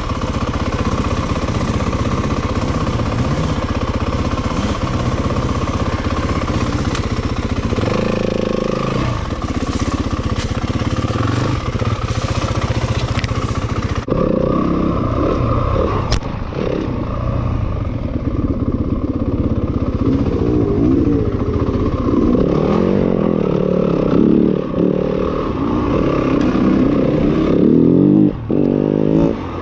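Dirt bike engine running hard while riding, its revs rising and falling as the throttle is worked.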